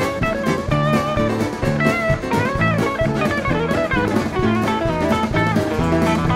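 Lead guitar solo in a live country-rock band, the guitar line bending up and down in pitch over bass and drum kit.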